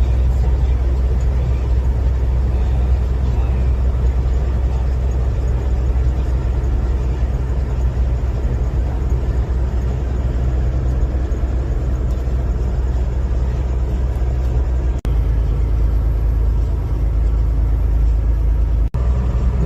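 Steady low rumble of a car on the move, heard from inside the cabin: engine and tyre road noise. It cuts out for an instant twice near the end.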